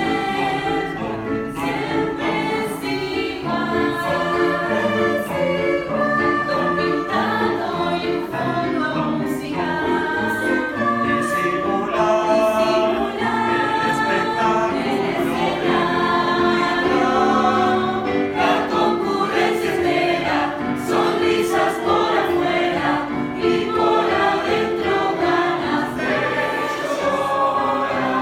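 Youth choir singing a song in parts, many voices holding and moving between notes.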